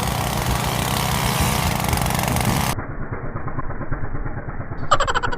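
Small old TVS XL moped engine fitted to a bicycle, running loud without a silencer, with a steady low pulsing exhaust beat. The bright hiss above it cuts off abruptly about three seconds in, and a short higher-pitched sound comes near the end.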